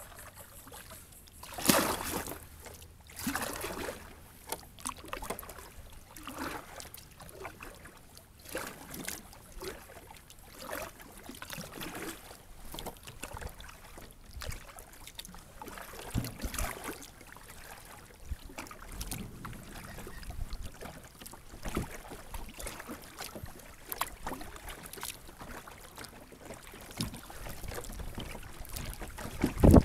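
Kayak paddling: the paddle blades dip and splash in the water in irregular strokes, with dripping and water lapping around a sit-on-top kayak.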